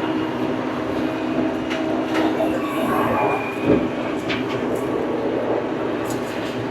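Old farm tractor's engine running steadily, with a few short clanks and rattles scattered through.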